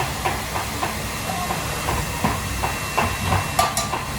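Hot cooking oil sizzling steadily, with many small crackles, as when frying breaded cutlets. Two sharp clicks come near the end.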